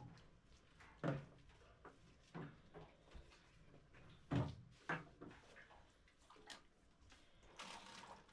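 Scattered knocks and thumps at irregular intervals, the loudest about a second in and just after four seconds in, with a brief rustle near the end.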